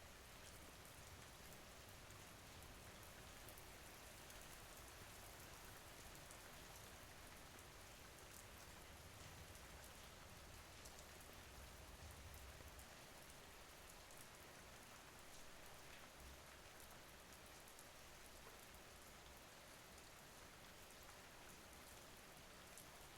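Faint, steady rain: an even hiss with fine drops ticking, and a soft low rumble underneath.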